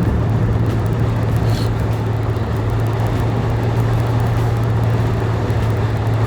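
Steady drone of a moving car heard from inside the cabin: road and engine noise with a constant low hum.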